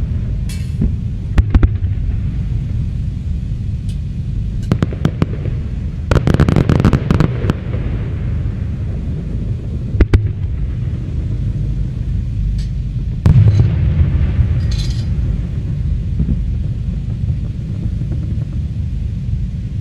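Aerial fireworks display: a continuous low rumble of distant bursts, broken by sharp bangs and crackle, with a dense flurry of cracks about six seconds in and single loud bangs around ten and thirteen seconds in.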